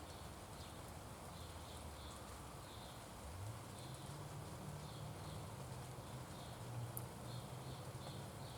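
A small bird chirping over and over, short high chirps two or three a second. A low steady hum comes in about three seconds in.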